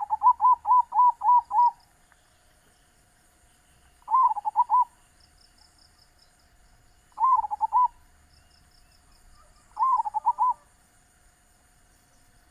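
Zebra dove (perkutut) cooing in bouts of quick, repeated notes: one long run of about seven notes at the start, then three shorter bursts a few seconds apart. Faint high chirps of small birds come between the bouts, over a steady high insect hiss.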